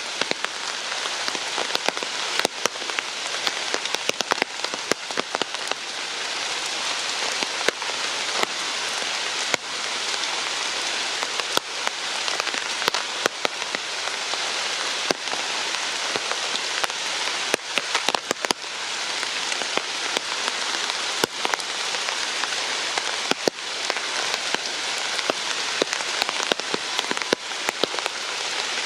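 Steady rain falling, with many sharp drops ticking on surfaces close to the microphone.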